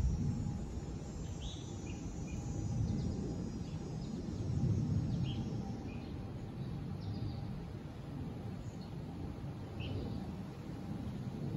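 Outdoor ambience: a low, uneven rumble with short, high bird chirps scattered through it.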